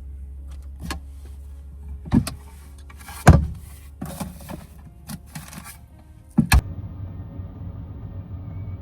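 A series of knocks and clunks, the loudest about three seconds in, followed from about six and a half seconds in by a steady low hum.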